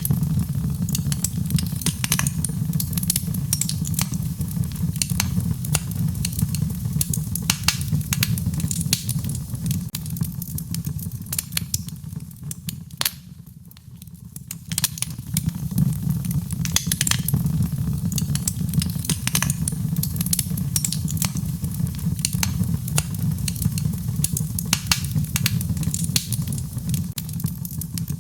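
Wood fire in a fireplace crackling with frequent sharp pops over a steady low rumble, blended with rain. The sound dips briefly about halfway through, then comes back.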